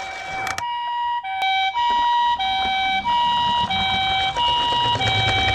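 Japanese-style two-tone ambulance siren, the hi-lo "pee-po" pattern: a higher and a lower steady tone alternating about every two-thirds of a second.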